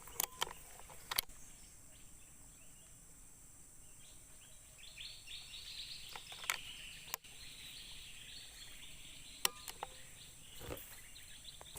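Quiet outdoor ambience with a few faint clicks; from about four seconds in, a high, rapidly pulsing animal trill runs for several seconds.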